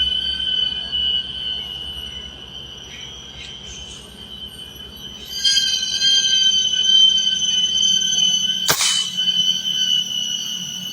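A steady, shrill insect chorus drones throughout, fading for a few seconds mid-way and coming back strongly. About nine seconds in, a single sharp gunshot cracks out.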